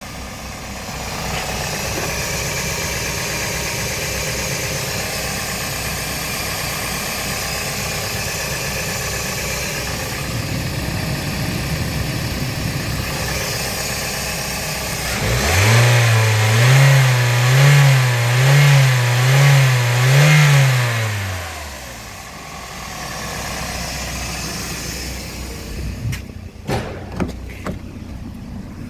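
Toyota 1NZ-FE 1.5-litre four-cylinder petrol engine idling steadily. About halfway through, it is revved up to mid revs and held for about six seconds, the pitch swelling slightly about once a second, then drops back to idle. A few sharp clicks come near the end.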